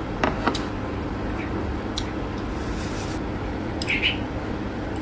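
Close-up eating sounds: someone chewing a piece of octopus, with a couple of small mouth clicks just after the start. Metal chopsticks clink lightly against a small glass dipping bowl about two seconds in and again near four seconds, over a steady low hum.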